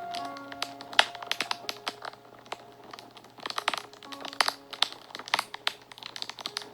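Wood fire crackling and popping in quick, irregular snaps, over soft background music of held notes.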